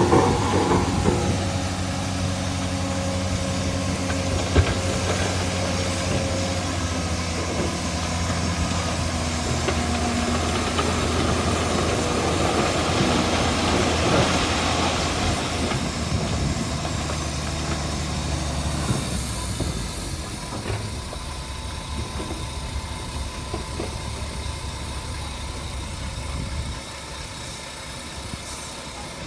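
Heavy diesel earthmoving machinery running steadily, with a low engine hum and a swell of hissing noise about halfway through. It grows quieter over the last third.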